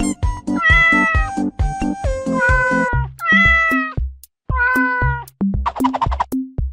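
A series of about five drawn-out cat meows, each under a second, over background music with a steady beat.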